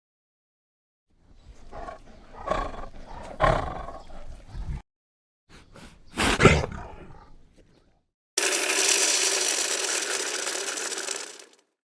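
A large wild animal growling and roaring in two bouts, the second the loudest. This is followed by a steady, dry rattling buzz lasting about three seconds.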